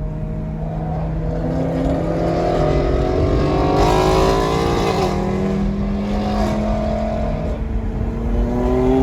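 Car engine revving under a steady idling engine: the pitch climbs for a few seconds and drops sharply about five seconds in, then climbs again and falls off near the end.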